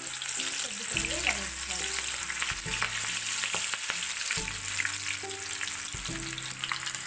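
Palak pakoras (spinach in gram-flour batter) deep-frying in hot oil, a steady sizzle with fine crackling.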